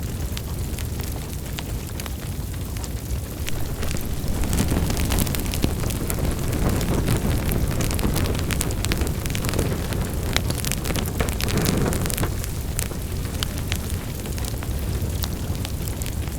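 Wood fire burning in a fireplace: a steady low rumble of the flames with many irregular sharp crackles and pops, busiest in the middle.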